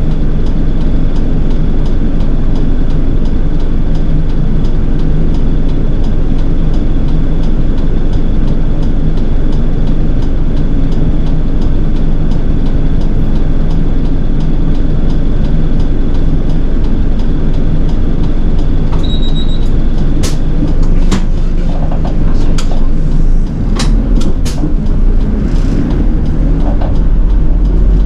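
City bus running on the road, heard from inside the cabin: a steady low drone of engine and road noise. From about twenty seconds in, several sharp clicks and rattles come through over it.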